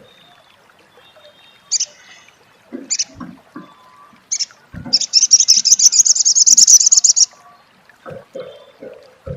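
Sunbird giving its chattering 'crecet' call: a few single sharp high chirps, then a fast, loud, high trill of rapid repeated notes lasting a little over two seconds. A few soft low thuds sound underneath.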